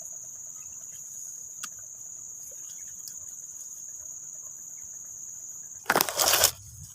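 Insects chirring in a steady high-pitched drone, with a loud rustling burst about six seconds in.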